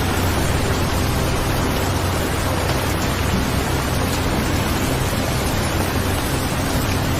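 Steady rainfall: an even hiss with a low rumble underneath.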